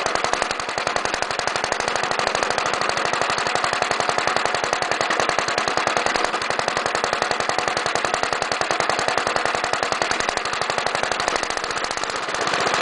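Villiers Mk20 stationary engine running with a rapid, even firing beat through a small Briggs and Stratton muffler on its broken exhaust stub. The fuel has been turned off so the carburettor is being run dry.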